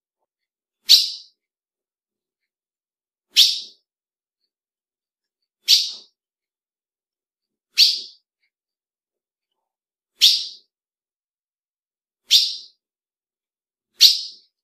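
Female ultramarine grosbeak (azulão) giving a short, high call note seven times, about every two seconds, with silence between the calls.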